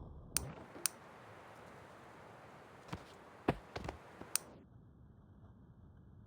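Half a dozen sharp clicks or taps, irregularly spaced, over a faint hiss that cuts off suddenly after about four and a half seconds.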